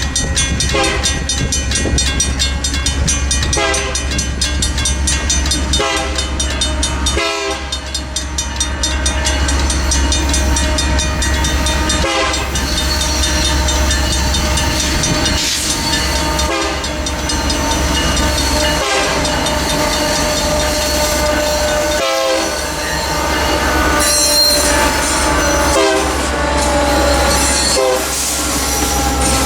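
EMD GP60M-3 freight locomotives passing through a grade crossing, the lead unit's Nathan K3LA horn sounding in long chords over the deep rumble of the diesel engines. Wheels click over the rail joints.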